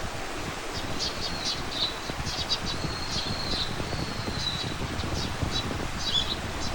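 Small songbirds chirping and twittering in short high notes, with one thin, high note held for about a second and a half in the middle. A steady low rumble runs underneath.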